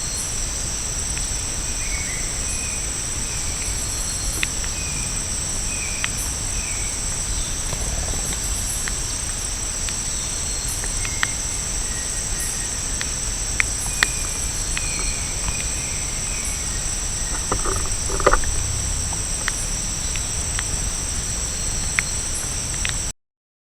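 Rainforest ambience: a steady, high-pitched insect chorus, with faint short bird chirps and scattered sharp clicks. A louder brief call-like sound comes about three-quarters of the way through, and the sound cuts off suddenly just before the end.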